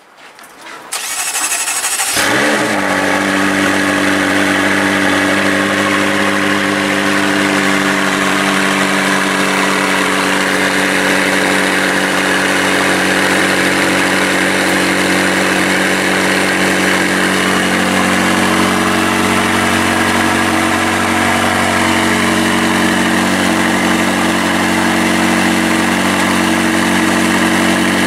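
McLaren 675LT's twin-turbo V8 starting: the starter cranks for about a second, the engine catches with a brief flare of revs about two seconds in, then settles into a steady idle.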